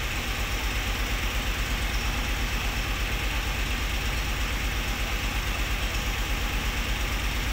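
Nissan Patrol petrol engine idling steadily with an even low pulse, not revved. The engine has a variable valve lift control motor fault code and had been failing to rev up.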